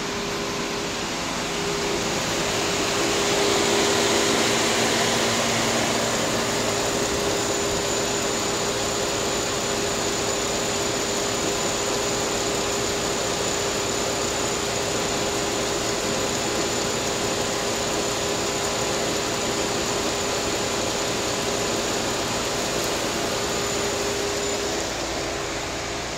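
A 2007 Pontiac G6 GT's 3.5-litre V6 idling steadily, with a steady hum and a faint high whine; it grows louder a few seconds in.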